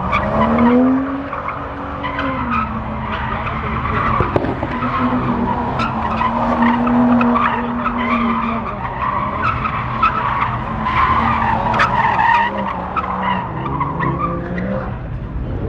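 A car drifting: its engine is held at high revs, rising and easing off and then held again, over the continuous squeal of its rear tyres sliding on the tarmac.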